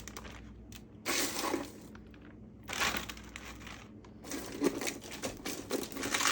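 Plastic bags or packaging crinkling in several short bursts as they are handled.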